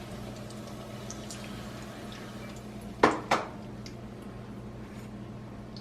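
Corn tortilla frying in a pan of hot oil with light scattered crackles, and two sharp clatters of kitchenware against the pan about three seconds in.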